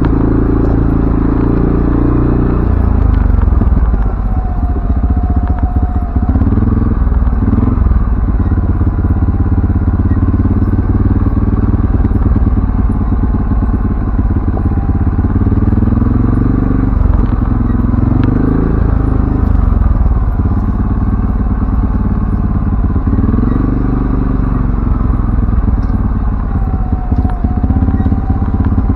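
CFMoto ATV engine running under way, its revs rising and falling repeatedly, with some clatter.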